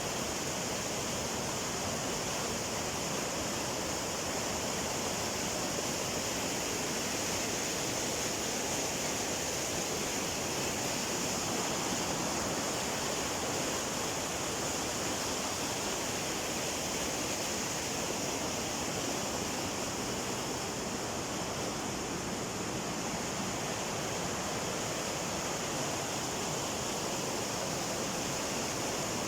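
Steady rushing of flowing water, like a cascade or fast stream, an even hiss with no breaks or changes.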